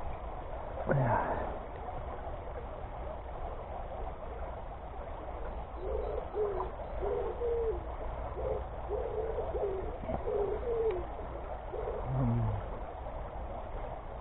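A bird calling outdoors: a run of about eight short, low notes about six seconds in, over a steady low rumble, with a brief falling sound near the start and another near the end.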